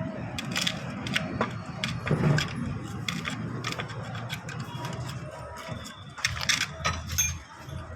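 Repeated metallic clinks and taps of hand tools working on an auto rickshaw's exhaust, irregular and scattered, over a steady low hum.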